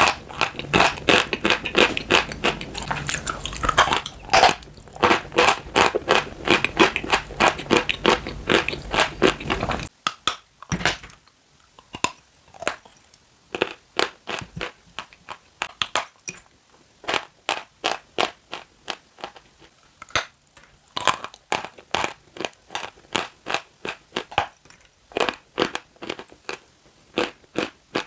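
Chalk being bitten and chewed close to the microphone: a dense run of crisp crunches, then, after an abrupt change about ten seconds in, separate crunches a few per second over a quieter background.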